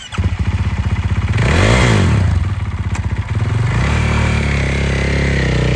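2020 Husqvarna FX 450's single-cylinder four-stroke engine, fitted with an FMF exhaust, running: it catches right at the start, is blipped once with a rise and fall in revs about a second and a half in, then settles to a steady idle near the end.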